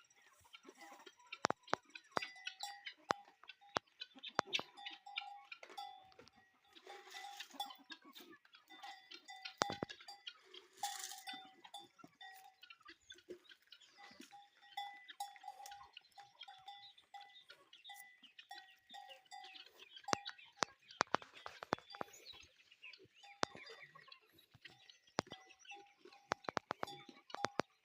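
Livestock bells clanking irregularly, a ringing tone that comes and goes among many sharp clinks.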